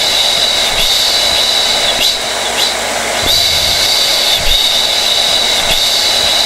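Hair blow dryer running steadily: a constant rush of air with a high-pitched whine that wavers slightly.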